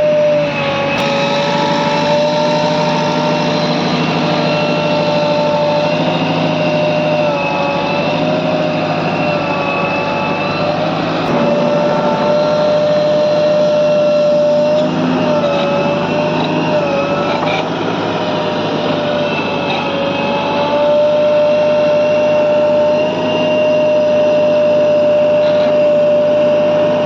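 Heavy diesel machine engine running steadily, with a loud high whine that wavers slightly in pitch every few seconds.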